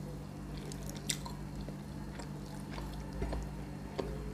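Close-miked chewing and soft squishing as roast chicken is torn apart by hand and eaten, with a few faint clicks over a steady low hum.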